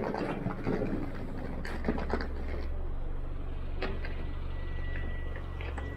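A car engine idling, a steady low hum that gets louder about two and a half seconds in, with a few footsteps on concrete over it.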